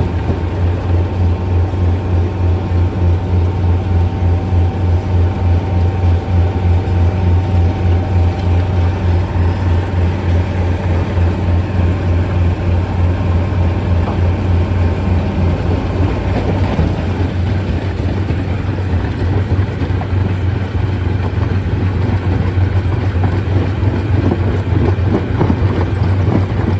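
Stone crusher machinery running steadily, a deep hum that pulses at an even rhythm, with a rough rumble over it.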